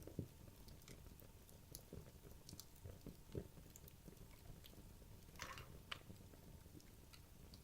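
Wood logs burning in a fireplace: faint, irregular crackles and small pops over a low rumble of flame, with a short hissing crackle about five and a half seconds in.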